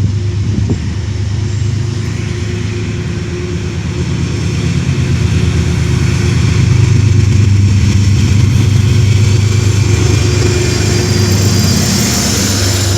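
Diesel locomotive engine running with a steady low hum, growing louder from about four seconds in and then holding.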